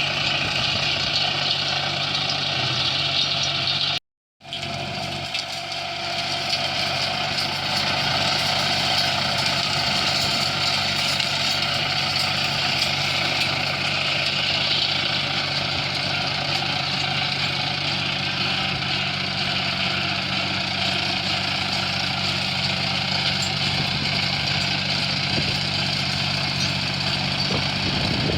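An engine running steadily at a constant speed, with a steady low hum and a brief cut to silence about four seconds in.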